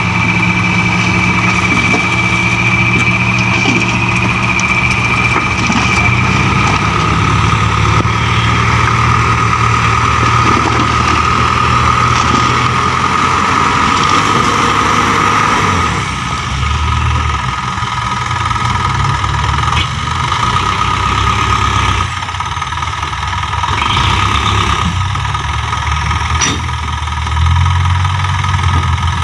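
Heavy diesel dump truck engines running, with a steady high whine over the engine note; the engine note shifts and drops somewhat past the middle.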